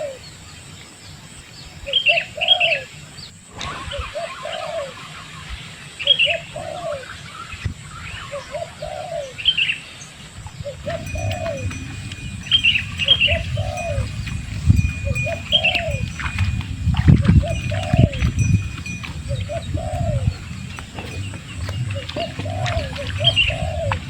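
A dove cooing over and over, a short rising-and-falling coo about every second and a half, with another bird's sharp chirps every few seconds. From about halfway through, a low rumble sits under the birds.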